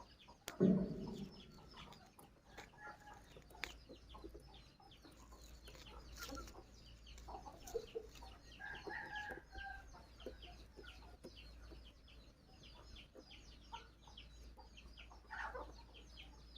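Nestling birds cheeping in a fast, continuous stream of short high peeps. There is one loud thump about half a second in.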